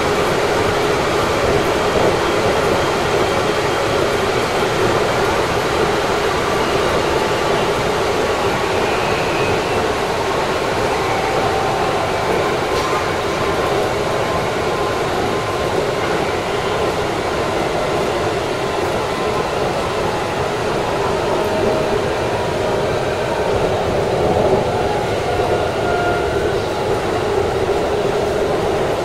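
Keikyu electric train running along the track, heard from inside the driver's cab: a steady rumble of running noise with faint, shifting motor tones above it.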